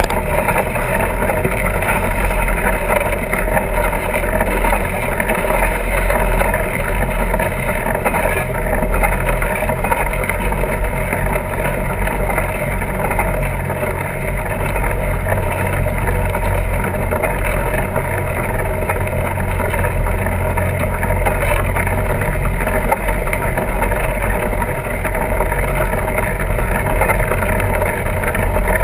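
Steady rumbling drone with wind buffeting the microphone, typical of a camera carried on a fat tire bike while riding.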